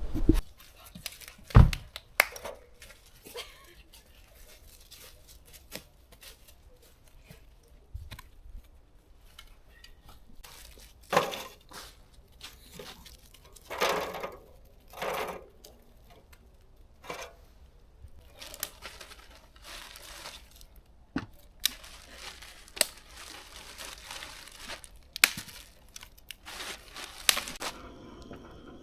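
Irregular rustling and crinkling of dry material, in bursts about a second long, with sharp snaps and clicks scattered throughout.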